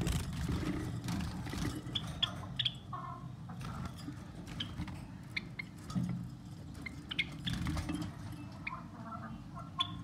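Small cage birds giving short, scattered chirps, over a steady low rumble of the phone being handled.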